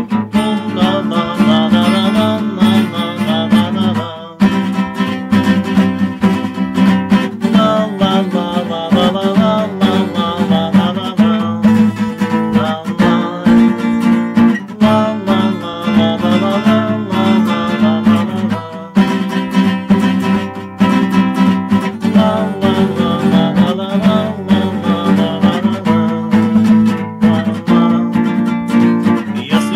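Acoustic guitar strummed steadily in chords, an instrumental break between sung verses of a song.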